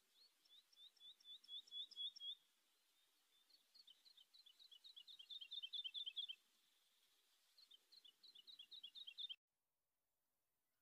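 A songbird singing three trilled phrases of quick, high repeated chirps, each phrase growing louder. The song cuts off suddenly about nine seconds in.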